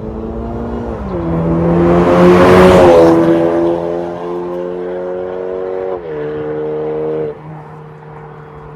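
BMW 420i's B48 turbocharged four-cylinder engine running through an MS-R valved cat-back exhaust as the car drives past, loudest about two and a half seconds in. The exhaust note drops in pitch in steps about a second in and again twice near the end, and quietens after the last drop.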